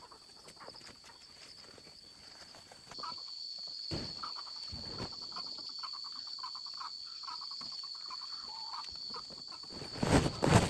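Insects droning steadily at a high pitch, louder from about three seconds in, with rapid chirping over it for several seconds. There are a few dull thuds, the loudest near the end.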